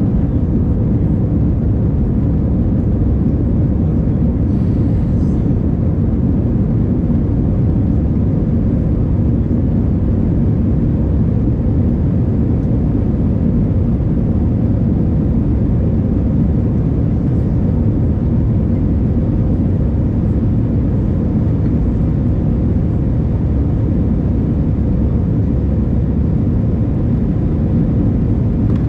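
Steady rumble of a jet airliner's engines and airflow heard inside the passenger cabin, holding an even level, as when the aircraft is climbing or cruising.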